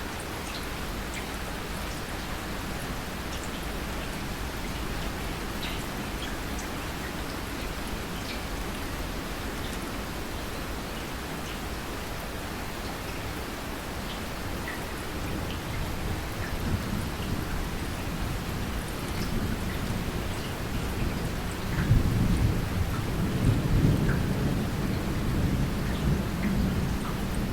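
Steady rain with scattered drop ticks, joined by rolling thunder that builds low about halfway through and is loudest in the last few seconds.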